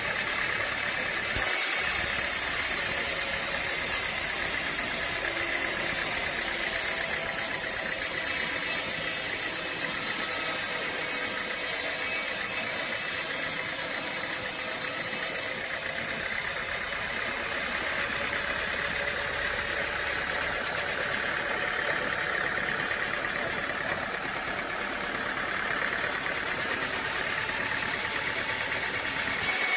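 A machine engine running steadily, as at a sawmill. Its tone changes abruptly about a second and a half in and again about halfway through.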